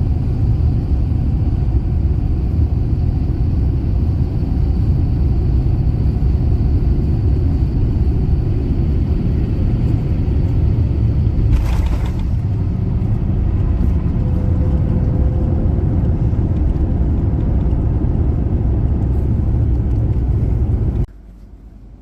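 Airliner cabin noise during landing: a loud, steady low rumble of engines and airflow, with a brief burst of noise about halfway through. It cuts off suddenly about a second before the end.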